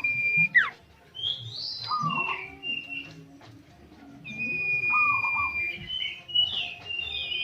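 A songbird singing in repeated phrases. Each phrase is a long steady whistle that drops off in a quick falling sweep, followed by short trills and a cluster of higher chirps; the pattern comes round twice.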